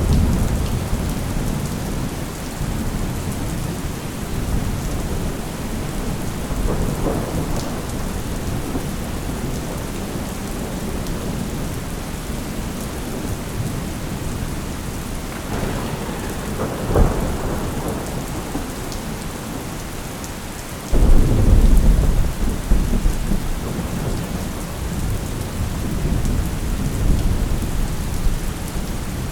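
Steady heavy rain with rolling thunder: several low rumbles swell and fade, and about two-thirds of the way through a sudden loud crack of thunder breaks into a long rumble lasting several seconds.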